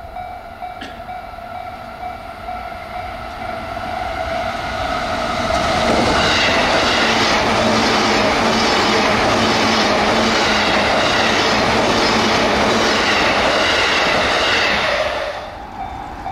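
A JR electric train passing close at speed. Its noise builds over a few seconds, holds loud for about nine seconds, then drops off suddenly as the last car goes by.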